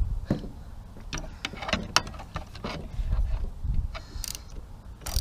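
Scattered sharp clicks and light knocks of small metal tools and parts being handled while working on a hedge trimmer, over a low rumble.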